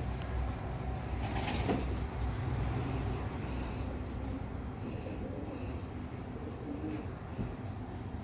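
Pigeons cooing softly in a loft over a steady low hum, with a brief rustle about a second and a half in.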